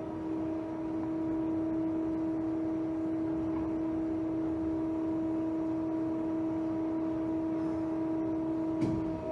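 Haas ST40 CNC lathe running with a steady machine whine and hum at an unchanging pitch, with a single short click near the end.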